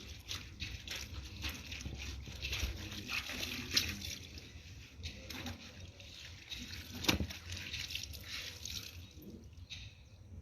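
Clothes being scrubbed by hand in a basin of soapy water: irregular sloshing and squelching of wet fabric, with one louder sudden stroke about seven seconds in.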